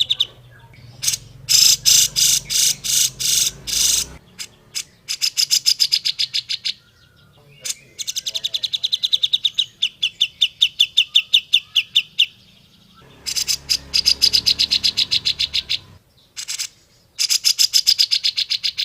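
Grey-cheeked bulbul (cucak jenggot) calling: loud phrases of rapidly repeated notes, some runs of about seven notes a second, broken by short pauses.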